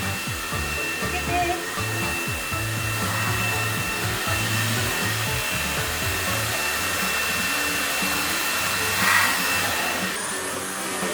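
Dreame Z10 Station cordless stick vacuum running with a steady rushing noise and a thin high whine. It cuts off about ten seconds in.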